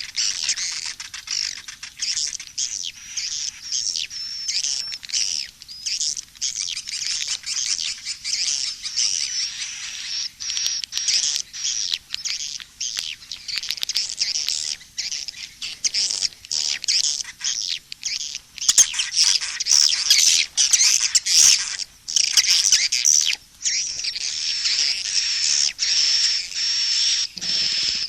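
Swiftlet calls, a dense, unbroken chatter of rapid high-pitched chirps and trills. This is a recorded 'SP' (suara panggil) calling-sound mix of the kind played to lure swiftlets into a nesting house. About two-thirds of the way in the calling grows louder and fuller.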